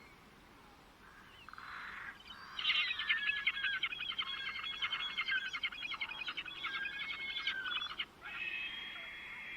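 A songbird singing a long, rapid, chattering warble of quickly changing high notes lasting about five seconds, then a shorter, steadier drawn-out note near the end.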